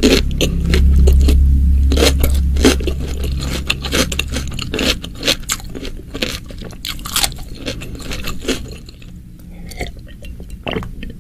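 Close-miked chewing of a crunchy cucumber slice in spicy chili sauce: wet crunches and mouth clicks that grow sparser toward the end. A steady low rumble runs underneath for the first four or so seconds.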